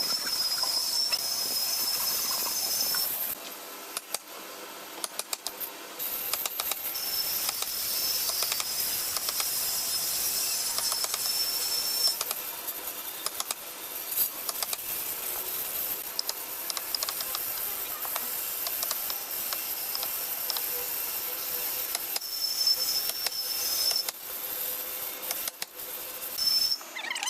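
A power tool working wood, giving a steady hiss and a high whine that comes and goes: for about three seconds at the start, for about five seconds from about seven seconds in, and briefly near the end.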